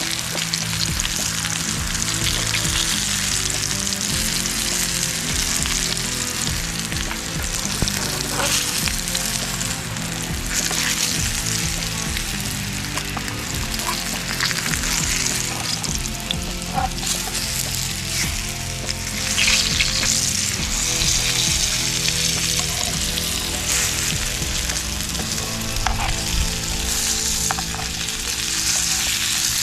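Food frying in a pan, a steady crackling sizzle, with background music underneath.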